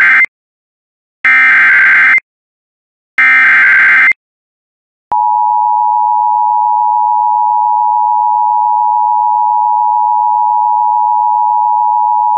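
NOAA Weather Radio SAME alert header: the tail of one short burst of screeching digital data tones, then two more bursts about a second long each, with gaps between. About five seconds in, the steady single-pitched 1050 Hz warning alarm tone begins. The tone signals that a warning, here a severe thunderstorm warning, is about to be read.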